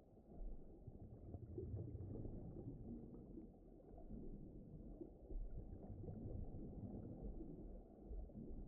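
Low, muffled underwater rumble, a deep-ocean ambience that swells and ebbs, with soft low thuds here and there.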